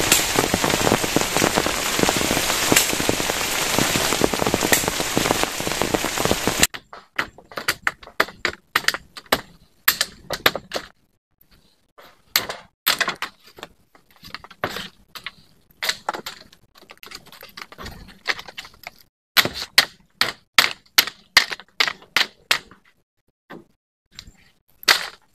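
Heavy rain falling steadily, cutting off abruptly about seven seconds in. After that comes a run of irregular sharp clicks and knocks.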